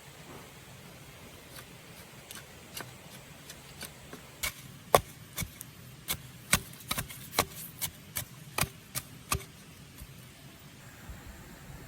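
A series of sharp, irregular knocks: a few faint ones at first, then louder ones about twice a second from about four seconds in, stopping near the end.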